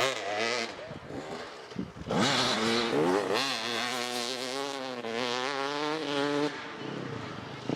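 Off-road vehicle engine revving up and down, then accelerating hard about two seconds in. It holds high revs until about six and a half seconds, then backs off and fades.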